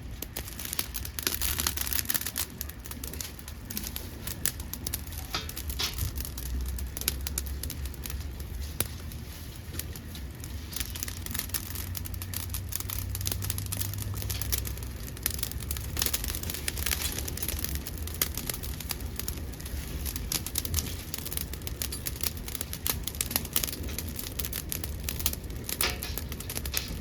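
Dead maki (podocarpus) wood burning in a homemade pail-can secondary-combustion wood stove: dense, irregular crackling and popping over a low steady rumble.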